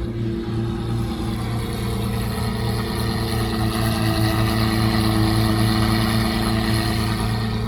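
Car engine idling steadily, with a slight swell in level around the middle.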